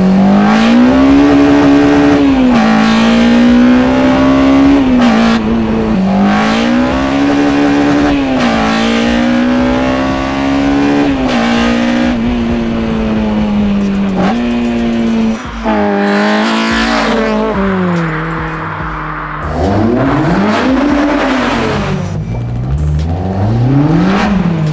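Naturally aspirated Honda K20 four-cylinder on individual throttle bodies, heard from inside the cabin under hard acceleration, its pitch climbing and dropping several times as the car pulls and the revs fall back. Near the end the engine is revved up and down in a few quick blips.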